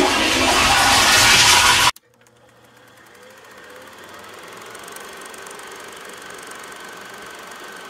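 Loud rushing water that cuts off abruptly about two seconds in, followed by a faint, steady hum with a thin high tone.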